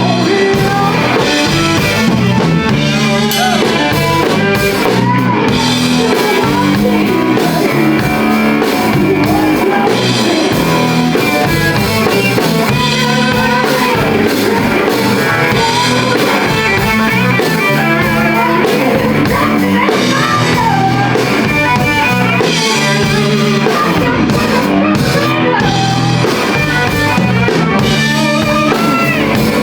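Live rock band playing a song, loud and steady, with drum kit and electric guitar throughout.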